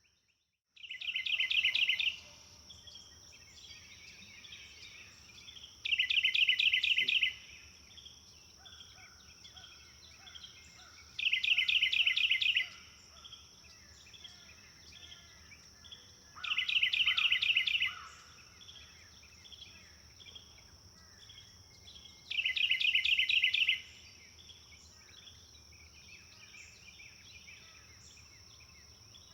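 Birdsong: one songbird repeats a loud, fast trill of about a second and a half roughly every five seconds, five times, with fainter birds chirping in between and a steady high tone underneath. The sound drops out briefly at the start.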